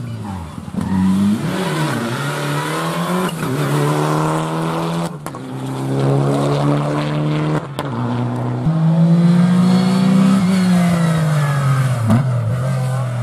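Rally car engine pulling hard up through the gears, the pitch climbing in steps with a short crack at each of two gearshifts, then falling away near the end as the car goes past.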